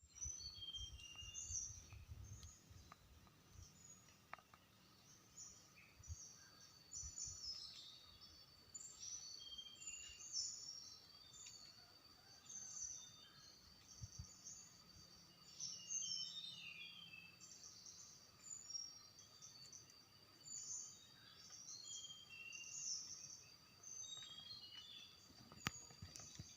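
A tledekan songbird singing in full voice: quick, high, warbling phrases repeated with short pauses, over a steady thin high whine.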